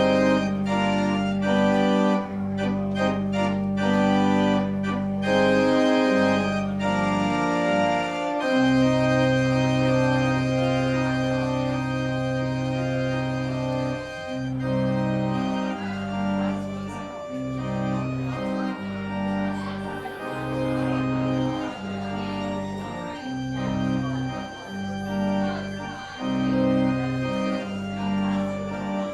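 Organ music closing a church service: full sustained chords over held bass notes, the bass moving in shorter, regular steps in the second half.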